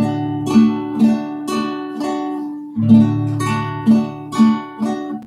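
Acoustic guitar strummed in the down-up guarânia rhythm, about two strokes a second, changing chord about three seconds in and stopping briefly at the end.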